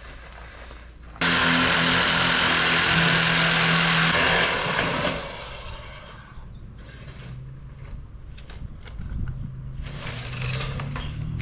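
Angle grinder switched on about a second in, cutting sheet metal with a harsh, hissing whine for about four seconds before winding down. A motor hum builds again near the end.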